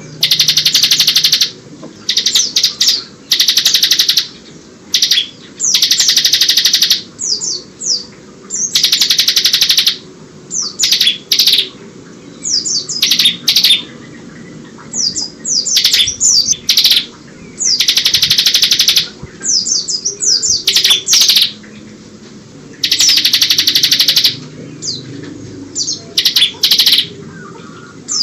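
Bar-winged prinia (ciblek) singing continuously, its song mixed with white-eye (pleci) phrases: loud, rapid buzzing trills about a second long, repeated every few seconds, alternating with short high chirps and quick falling notes.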